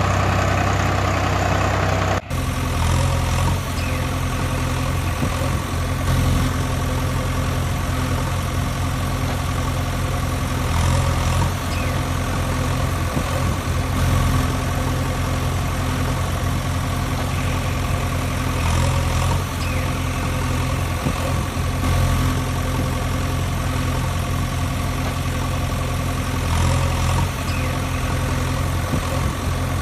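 Tractor engine idling steadily, with an even low hum. The sound cuts abruptly about two seconds in and carries on the same way.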